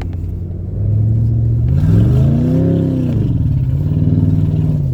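Jeep Commander engine revving: a steady note swells up in pitch for about a second, falls back, then holds a little higher until it eases off at the end.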